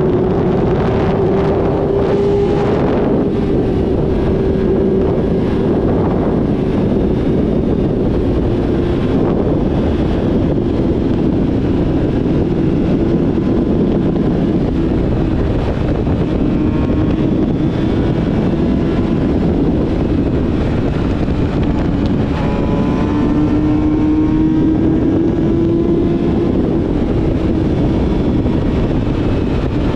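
Yamaha YZF-R6 inline-four with a full-system aftermarket exhaust, cruising under steady throttle. The engine note drifts slowly lower, swells briefly about three-quarters of the way through, then eases off. Wind rushes over the microphone throughout.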